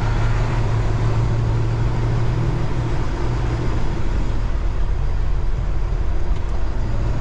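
Tractor-trailer's diesel engine running steadily as the truck drives slowly, heard from inside the cab as a low hum with road and cab noise.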